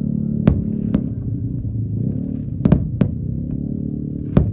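Fireworks bursting: about six sharp bangs at uneven intervals, two of them in quick succession about two and a half seconds in, over a steady low rumble.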